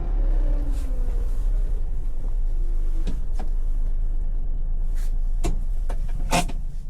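Honda Acty truck's 660cc three-cylinder engine idling, its revs settling down at the start. Several sharp clicks and knocks come over it in the second half, the loudest near the end.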